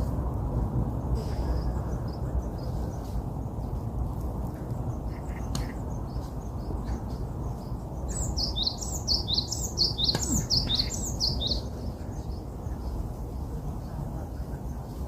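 A songbird sings a quick run of about ten high, falling notes, starting about eight seconds in and lasting about three and a half seconds. A few faint chirps and a steady low background rumble run underneath.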